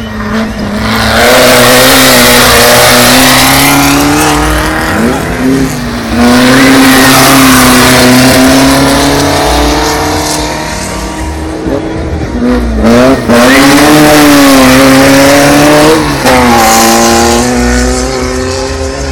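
Volkswagen race car engines running hard, their pitch rising and falling again and again as they rev and shift, with loud tyre and track noise over them in three loud stretches.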